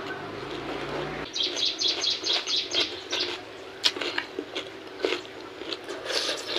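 A small bird chirping in a quick run of short high calls for about two seconds, with more chirps near the end. Under it are scattered soft clicks of eating by hand from a banana leaf. A low steady hum cuts off about a second in.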